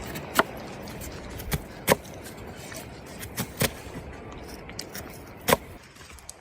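Wood fire crackling, with about six sharp pops scattered over a steady hiss of rain.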